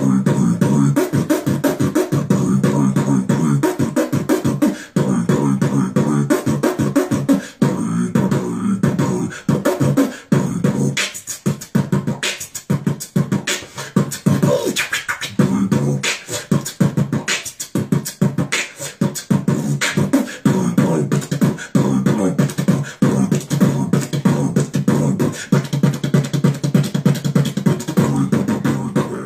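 A person beatboxing: a fast, unbroken stream of vocal drum hits and clicks over a steady hummed tone underneath.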